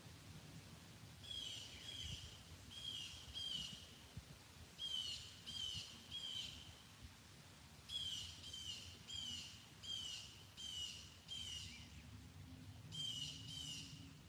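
A songbird singing outdoors: a clear, high, downward-sliding phrase repeated in quick runs of two to six, with short pauses between runs.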